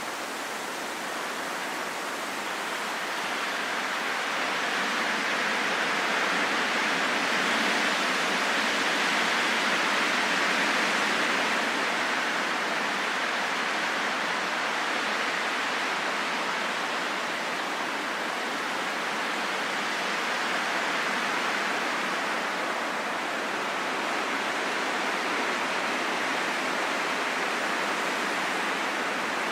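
Wind blowing as a steady rushing noise with no distinct tones. It swells to a peak about a third of the way through, then eases back a little and holds steady.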